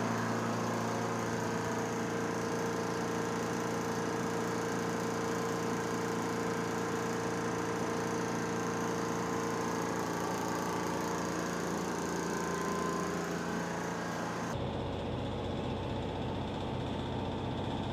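Steady hum of a running machine or motor, its tone changing abruptly about fourteen seconds in.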